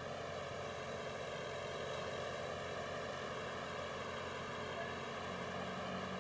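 A steady hum with hiss, even in level and without any distinct events.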